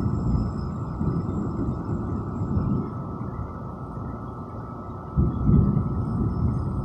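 Low rolling thunder from an approaching storm, easing off through the middle and swelling again with a sudden rise about five seconds in.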